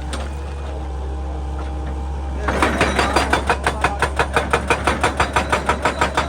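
Excavator engine running steadily, then about two and a half seconds in its hydraulic breaker hammer starts pounding rock: a fast, even rhythm of about six to seven blows a second.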